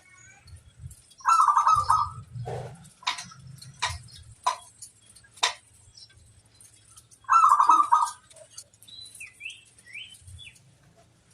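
Zebra doves (perkutut) singing: two loud trilled cooing phrases several seconds apart, with short sharp clicks in between and a few brief high chirps near the end, over a faint low hum.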